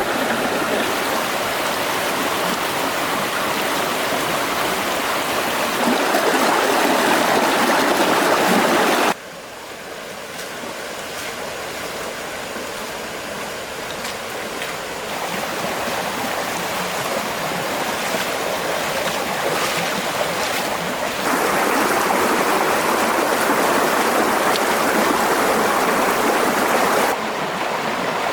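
Running water of a stream, a steady rushing noise that changes level abruptly several times, dropping about a third of the way in and rising again later.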